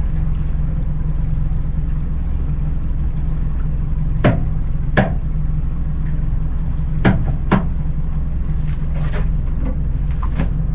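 Boat motor running steadily with a low drone, and four sharp knocks in two pairs, about four and five seconds in and again about seven seconds in.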